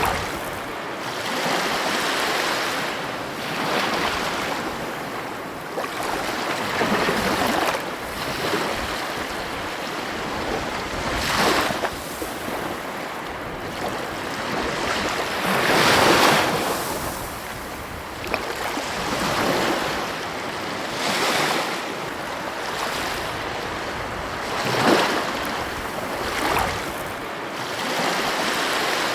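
Ocean waves breaking on a beach, a continuous wash of surf that swells and falls every few seconds, with one larger wave about halfway through and another near the end.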